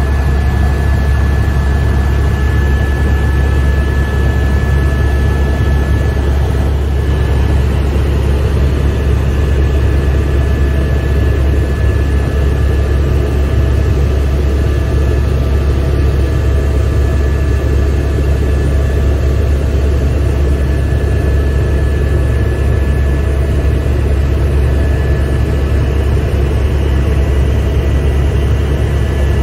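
Helicopter cabin noise in flight: a loud, steady, deep rotor drone with a steady high whine over it, heard from inside the cabin.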